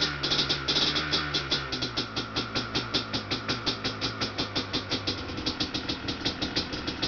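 Yamaha Blaster's single-cylinder two-stroke engine, fitted with an FMF exhaust, idling just after a cold start in freezing air, with an even, pulsing beat. Background rock music fades out during the first few seconds.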